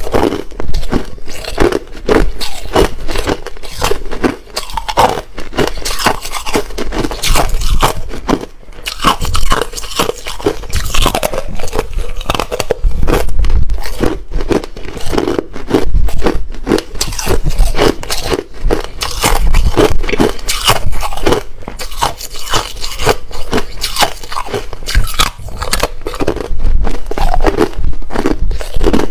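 Hard ice being bitten and chewed close to the microphone: a continuous run of sharp, loud crunches and cracks.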